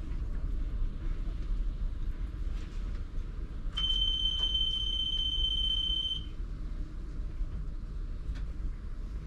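Low rumble of a ČKD Tatra T3R tram, with one steady, high-pitched electronic beep lasting about two and a half seconds near the middle.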